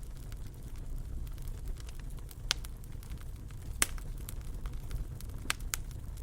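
Fire burning in a fireplace: a steady low rumble with sharp crackling pops, a handful of them, the loudest about four seconds in.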